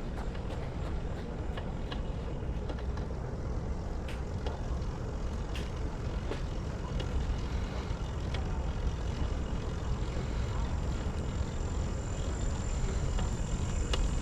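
Wind rumbling on a GoPro Hero 9's microphone during a bicycle ride, with tyre and bike noise and scattered small clicks. Near the end a thin, high insect buzz comes in.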